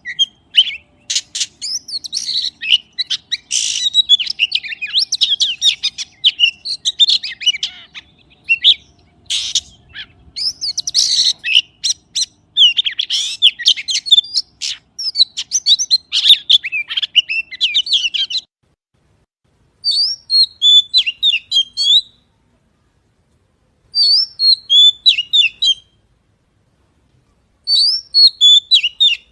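A songbird singing rapid, varied chirping phrases. A long unbroken run of song comes first, then three short bursts of chirps with pauses between them.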